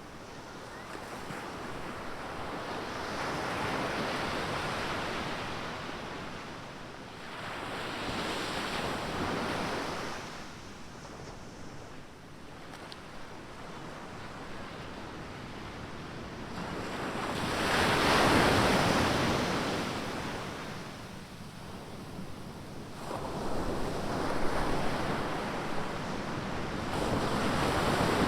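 Ocean waves breaking on a sandy beach: a steady wash of surf that swells and falls back in four surges, each lasting a few seconds, the loudest about two-thirds of the way through.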